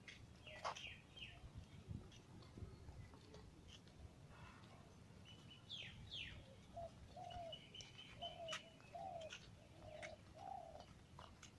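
Faint birds calling among roadside trees: scattered short high chirps and quick falling whistles, and in the second half a run of about six short, low, evenly spaced notes.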